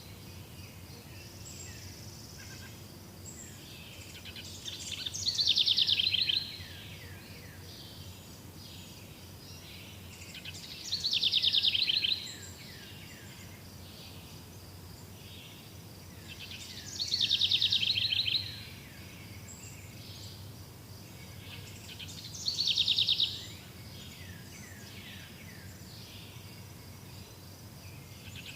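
A songbird repeating the same high, descending song phrase about every six seconds, five times, each phrase lasting about a second and a half. Between phrases there is a steady background of forest noise with a faint, even high-pitched hiss.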